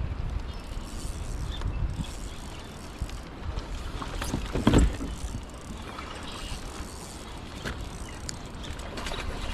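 Water lapping and sloshing against a kayak's hull, with wind rumbling on the microphone and small scattered knocks. There is one louder thump about halfway through.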